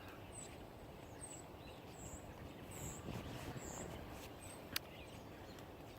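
A woodpecker pecking slowly into a tree trunk, heard as one sharp tap near the end, while it digs for food, probably wood-boring beetles. Faint high bird chirps repeat about once a second.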